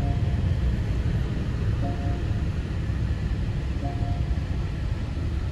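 Steady low rumble of a car running, heard from inside the vehicle, with a short pitched beep repeating about every two seconds.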